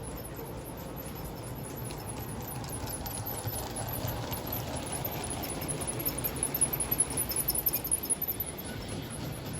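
LGB G-scale model train running on track: a steady motor hum and wheel rumble with light clicking, and a quick run of sharp clicks about six seconds in.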